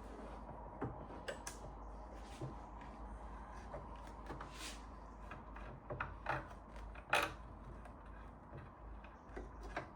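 Scattered light clicks and scrapes of small metal engine parts being handled and scrubbed during cleaning, over a low steady hum; the sharpest knocks come about six and seven seconds in.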